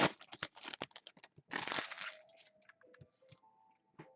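Foil trading-card pack wrapper crinkling and tearing, with the cards inside being handled: quick crackles and clicks in the first second, a longer crinkle about a second and a half in, then fainter clicks.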